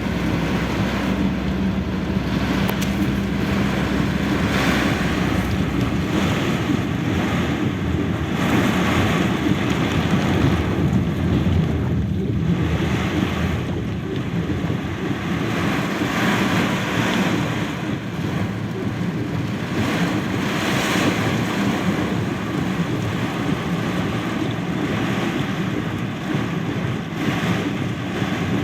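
Heavy rain in a downpour: a loud, steady rush of falling water that swells and eases every few seconds.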